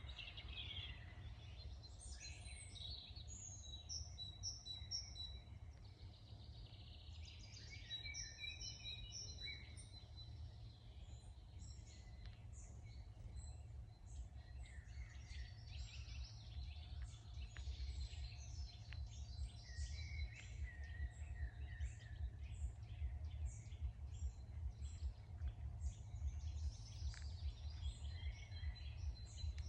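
Dawn chorus of several songbirds singing and chirping in woodland, phrases overlapping throughout, over a steady low rumble.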